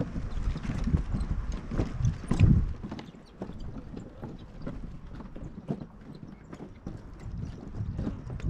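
Footsteps knocking irregularly on a wooden boardwalk, with wind buffeting the microphone for the first three seconds or so.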